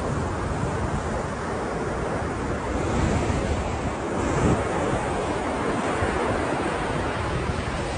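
Ocean surf: waves breaking and washing in as a continuous rush of noise, swelling a little about three seconds in and again near the middle.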